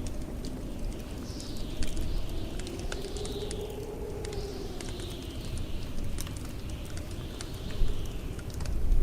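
Wood fire crackling in a fireplace with scattered sharp pops, over the low rumble of blizzard wind that howls, rising and falling, from about a second in.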